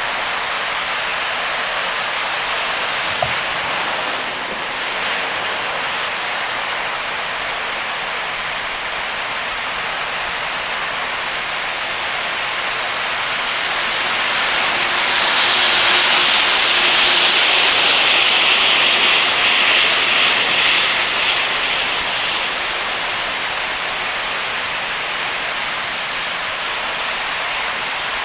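Heavy rain on a moving car, with the hiss of tyres on a flooded road. The hiss swells for several seconds in the middle, then eases back.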